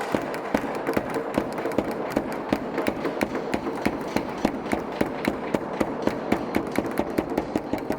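Fast, steady percussion beat of sharp taps, about four or five a second, over a continuous background.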